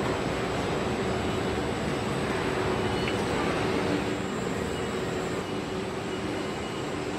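Steady machine noise, an even rush with a few faint steady tones in it.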